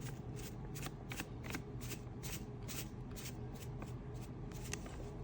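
Hands rustling and handling packaging in quick repeated strokes, about three to four a second, over a low steady hum.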